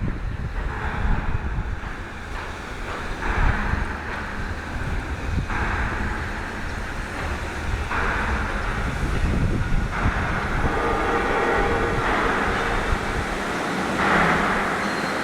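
Loud factory machinery noise: a steady low rumble with hissing surges that rise and fall every two seconds or so.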